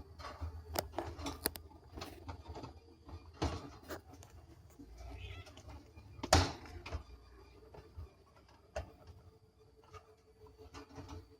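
Scattered knocks and rustles of handling and movement, with one sharper knock about six seconds in.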